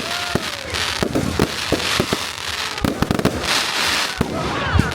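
Fireworks display going off: a rapid run of bangs over dense crackling.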